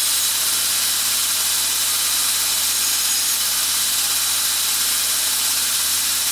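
Steady machine hiss with a faint high whine and a low hum, unchanging throughout.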